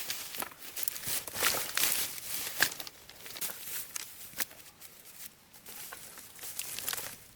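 Rustling and crinkling handling noise with many sharp clicks and snaps, busiest in the first three seconds.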